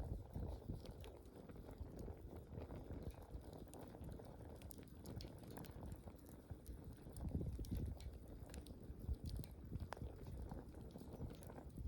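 Wood bonfire burning: a low, steady rumble of flames with irregular sharp crackles and pops from the burning wood.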